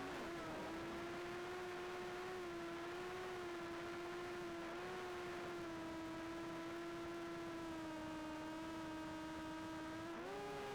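Quadcopter drone's propellers humming steadily, the pitch wavering slightly, then rising sharply near the end as the motors speed up.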